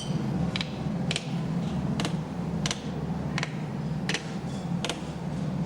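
Sharp metallic clicks, about one every two-thirds of a second, over a steady low hum.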